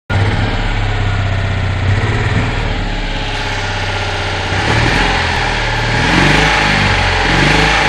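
Citroën 2CV's air-cooled flat-twin engine running steadily, then revved in short blips in the second half, the pitch rising and falling.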